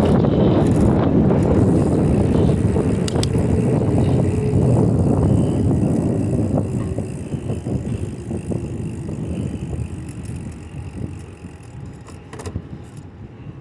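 Riding noise from a bicycle on pavement: a steady rumble of tyres and wind on the microphone, with a few light clicks and rattles. It fades gradually from about halfway through, as the bike slows.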